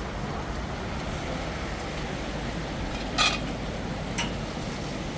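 Steady low background rumble with a sharp clink about three seconds in and a fainter tap a second later.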